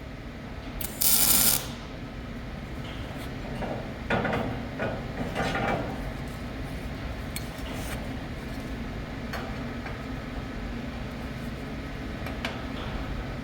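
Metalworking sounds: a short, loud burst of hissing noise about a second in, then a few seconds of metal clinking, knocking and parts being handled, over a steady low workshop hum.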